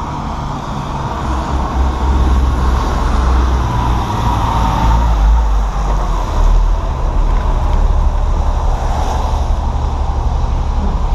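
Vehicle engine running with a steady low rumble, mixed with street traffic noise; it grows a little louder about two seconds in.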